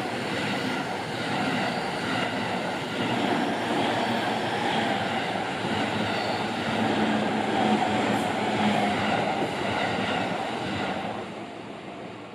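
JR Takasaki Line train passing over a level crossing: steady rolling noise of wheels on rail, fading away about eleven seconds in as the train leaves.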